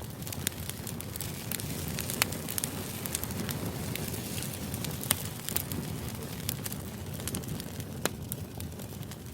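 Crackling fire ambience: a steady low rumble with irregular sharp pops and snaps scattered through it.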